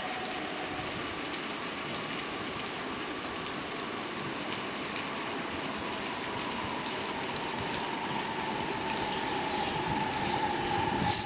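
JR Kyushu 817 series electric train running: steady rolling noise with a faint motor whine that slowly falls in pitch, growing louder toward the end.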